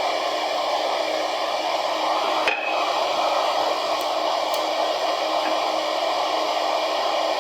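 A workshop electric motor, a power tool or dust extractor, running steadily with an even whooshing whir and a faint hum. A light click comes about two and a half seconds in.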